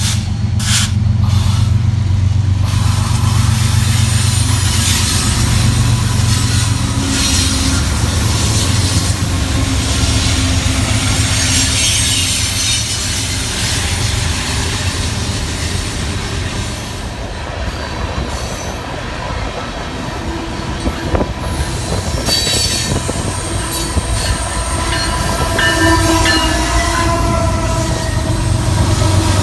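Freight train rolling past with a steady rumble of wheels on the rails. High wheel squeal sets in near the end.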